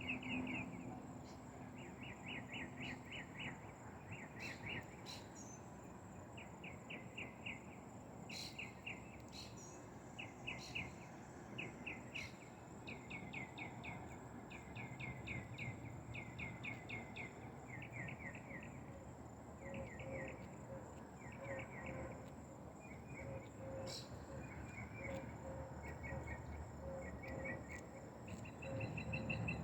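Outdoor insect chorus: short, rapid chirping trills that repeat about once a second, over a steady high-pitched insect whine. A few faint clicks are heard, and a softer pulsing chirp joins in past the middle.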